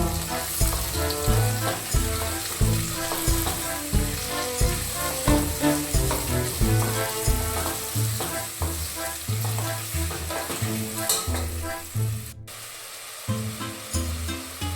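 Sliced onions sizzling as they sauté in hot oil in a pan, with a spatula stirring them now and then.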